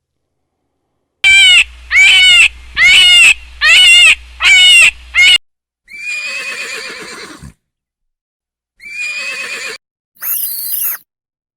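Animal calls: a run of six loud, quick calls, each falling in pitch, then three shorter, rougher calls that each stop abruptly.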